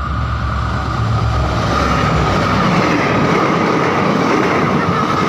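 A locomotive-hauled passenger train passing close by at speed. The locomotive's deep hum gives way about a second in to the louder, steady rush of the coaches running over the rails.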